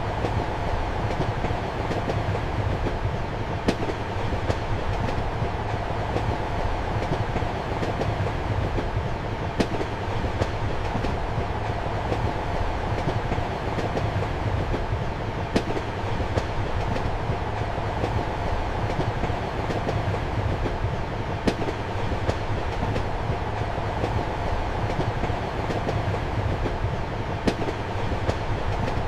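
Passenger train running steadily, heard from inside a compartment: an even rumble and hum of wheels on track, with a sharp click about every six seconds.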